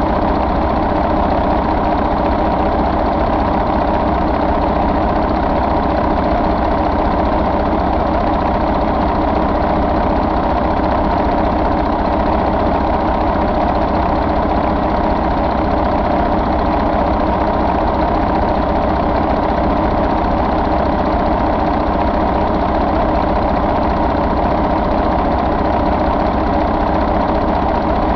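2004 Mercedes-Benz MBE4000 inline-six diesel engine idling steadily.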